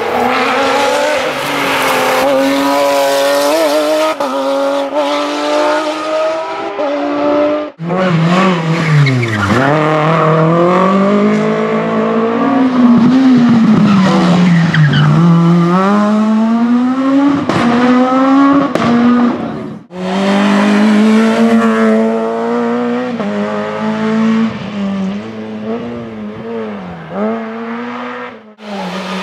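Rally cars driven hard on a stage, engines revving up and dropping back through gear changes, in three separate passes that cut off suddenly about 8 and 20 seconds in.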